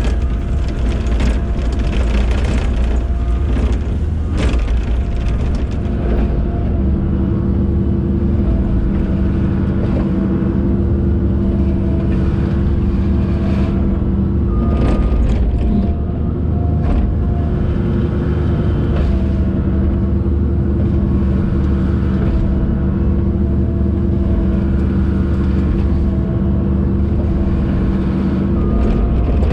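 Diesel engine of a compact earthmoving machine running steadily under load, with a held hydraulic whine that comes in about seven seconds in and drops out briefly around the middle, as it works wet modified stone. A few sharp knocks are heard along the way.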